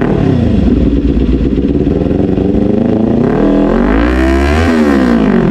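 Kawasaki Ninja 400's parallel-twin engine through a newly fitted SC Project aftermarket exhaust. It drops back to idle, idles for a few seconds, then is revved once, the pitch rising and falling back to idle near the end.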